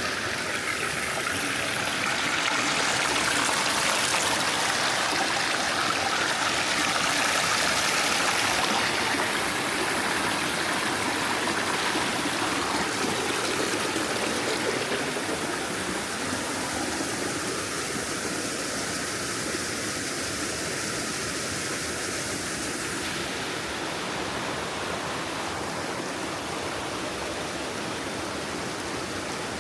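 A wide mountain stream rushing, a steady full rush of water that is louder for the first several seconds and eases a little in the second half.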